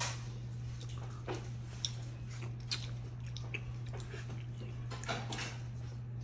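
Close-up chewing and mouth sounds of a person eating spaghetti and meatballs, with a few short sharp clicks, over a steady low hum.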